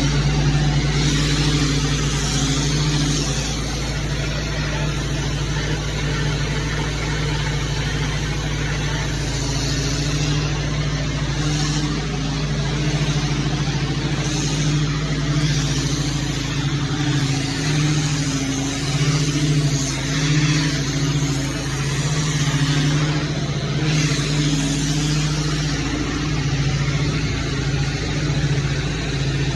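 Pressure washer engine running steadily, with the hiss of the high-pressure water spray swelling and easing every few seconds.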